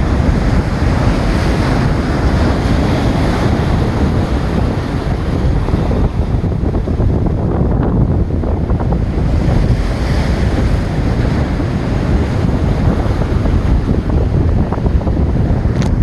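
Waves crashing against a jetty, with strong wind buffeting the microphone.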